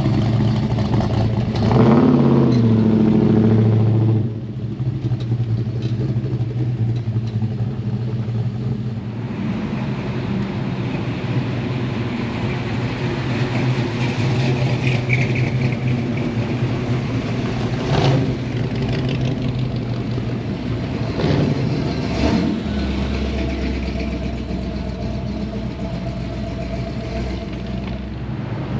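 Truck engines running, with one louder engine from about two to four seconds in.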